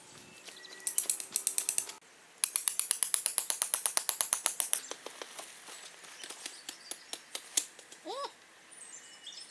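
Rapid, even mechanical clicking, about eight clicks a second, in two runs of about one and two seconds, then a few loose clicks and a short squeaky chirp near the end.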